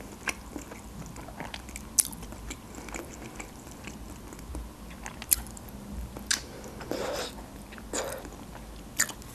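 Close-up eating sounds of stuffed cabbage rolls: soft wet chewing, broken by a few sharp clicks and one longer smacking bite about seven seconds in.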